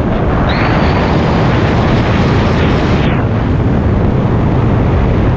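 Wind buffeting the microphone: a loud, steady rush with a deep rumble. The hiss thins out a little about three seconds in.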